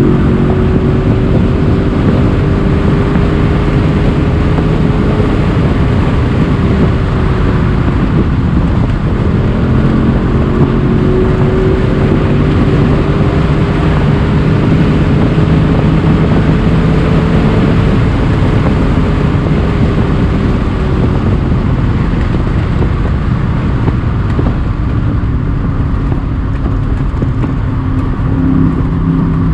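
Mercedes-AMG C63's twin-turbo V8 pulling hard at full throttle, its pitch climbing, dropping at an upshift about eight seconds in, then climbing again. Past the middle the revs ease off into a steadier, lower drone. Heavy wind and road rush from the open-top car at motorway speed runs under it throughout.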